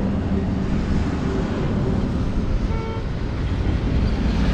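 Road traffic rumbling past, with a short vehicle horn toot about three seconds in.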